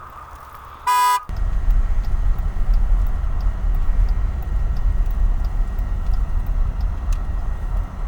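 A vehicle horn gives one short toot about a second in, followed by a loud, steady low rumble.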